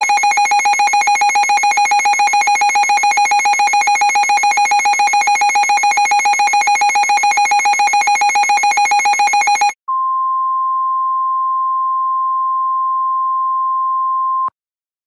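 Emergency Alert System-style alert tones. First comes a rapidly trilling, ringing alarm tone for nearly ten seconds. After a brief gap it gives way to a single steady, higher beep tone, in the manner of a weather-radio warning tone, which cuts off abruptly about five seconds later. These are the attention tones that introduce the next warning.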